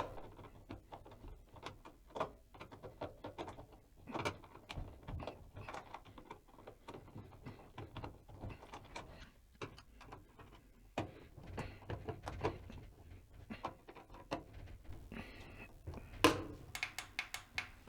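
Faint, scattered clicks and small knocks of a screwdriver tightening the Phillips screws of a new dryer door switch, with a denser run of clicks near the end.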